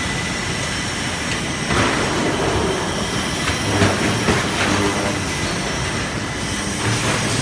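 Automated resistance seam welding line running: a steady machine noise with scattered clicks and knocks and short bursts of low hum.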